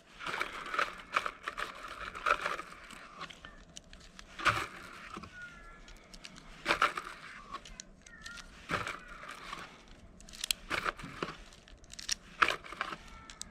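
Irregular small clicks and rustling handling noise: .22 LR cartridges being handled and pressed one at a time into a Glock 44 magazine, with a few sharper clicks spread through.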